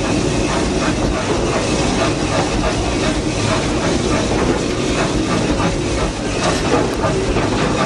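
Steady rumble and clatter of a passenger car riding the rails behind the Vulcan steam locomotive, heard from aboard, with wheels clicking irregularly over the track.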